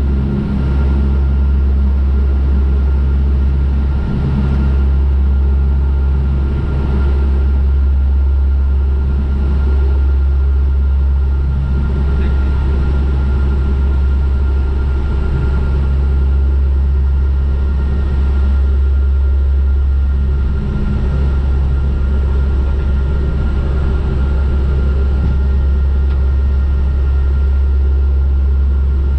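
Steady drone of a turboprop airliner's engines and propellers in flight, heaviest in the low end, with a thin steady whine above it.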